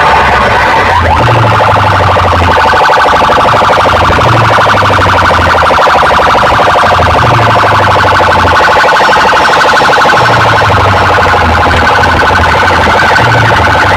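A fast, warbling alarm-like siren tone blasting at full volume through a large DJ sound system, with heavy bass beats underneath.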